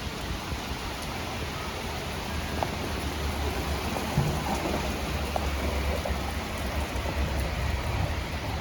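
Steady heavy rain with scattered drop ticks. A deep rumble of thunder builds from about two seconds in and rolls on to near the end.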